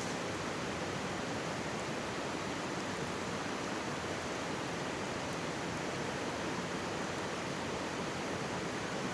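Mountain stream rushing steadily right beside the microphone, with a few faint crackles from a wood campfire.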